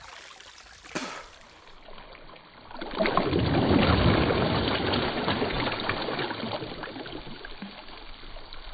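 A person jumping into a deep stream pool: a loud splash about three seconds in, then churning water that fades over several seconds, over the steady sound of the flowing stream.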